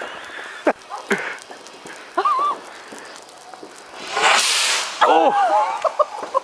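A firework shot going off with a short hissing whoosh about four seconds in, between a couple of sharp cracks near the start and short shouts and exclamations.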